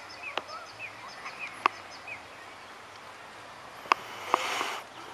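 Small birds chirping during the first two seconds, over a few sharp clicks. About four seconds in comes a short rush of noise.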